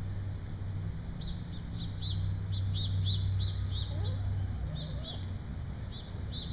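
A bird chirping in a quick run of short high chirps, several a second, fading out about five seconds in. Underneath is a steady low hum, with a few soft lower calls near the middle.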